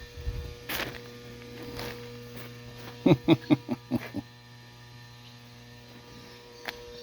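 Steady mains electrical hum, with a quick run of about seven sharp clicks about three seconds in and one more click near the end.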